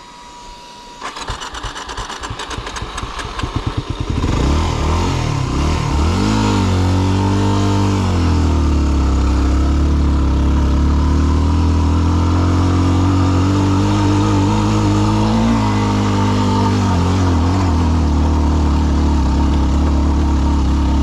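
Yamaha WR250R's single-cylinder engine pulling away from a stop in first gear on a steep, rocky climb: its slow pulses quicken over the first few seconds, then it runs loud and hard at high revs, dipping and rising in pitch a few seconds later. It is labouring for power, which the rider puts down to the thin air at high altitude.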